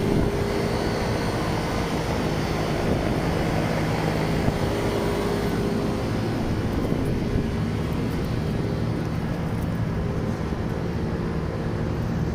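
Large package air-conditioning unit running, a steady mechanical drone of fans and compressor with a low hum.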